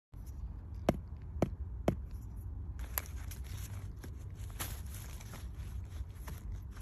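Three sharp knocks on a large silky rosegill mushroom (Volvariella bombycina), about half a second apart, followed from about three seconds in by rustling and scraping with many small clicks against the mushroom.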